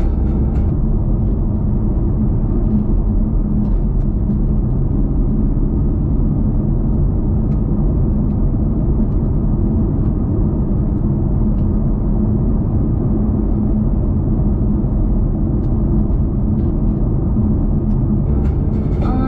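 Muscle car cruising at a steady speed: a low, even engine and road rumble with no revving.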